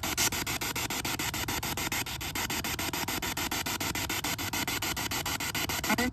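Spirit box sweeping through radio stations: a steady hiss of static chopped into rapid, evenly spaced clicks many times a second.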